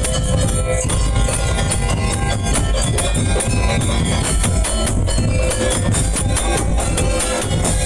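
Madurese daul music: a percussion-led street band playing loud and steady, drums and jingling percussion keeping a dense beat.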